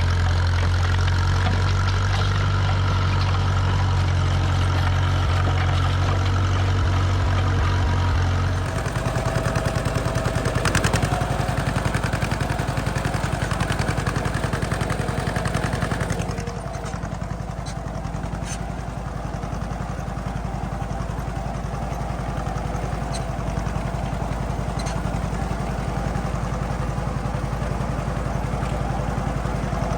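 Tractor engines running steadily, with the engine sound changing abruptly about nine seconds in and again about sixteen seconds in.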